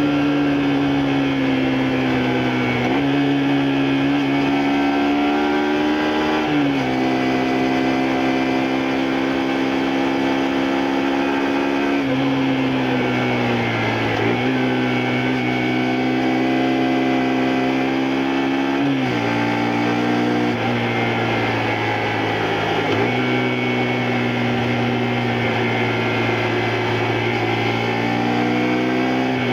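Honda Varadero XL125V's 125 cc V-twin engine running under way on the road. It holds a steady pitch between abrupt jumps in engine speed, about five in all, as gears are changed.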